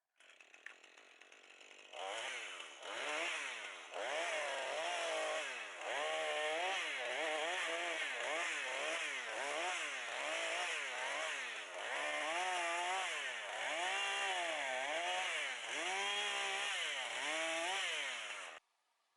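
Chainsaw cutting wood, its engine pitch rising and falling over and over as it works through the cut. It starts quietly, comes in loud about two seconds in, and cuts off abruptly near the end.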